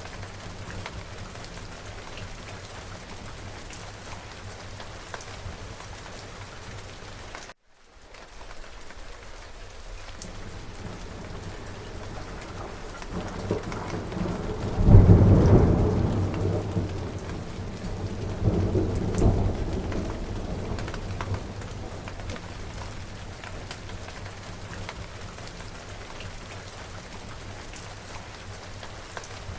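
Steady rain falling, with a rolling thunderclap about halfway through: the rumble builds, peaks sharply, surges again a few seconds later and fades back into the rain. The sound cuts out for a split second about a quarter of the way in.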